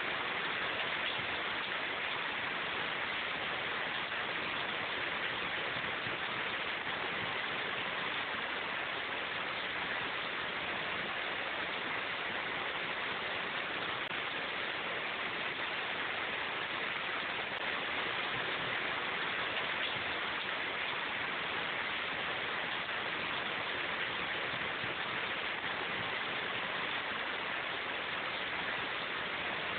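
Steady rain falling in a forest: an even, unbroken hiss with no separate drops, thunder or other events standing out.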